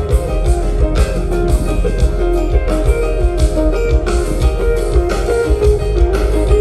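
Live rock band playing an instrumental jam: electric guitar over bass and a steady drum beat.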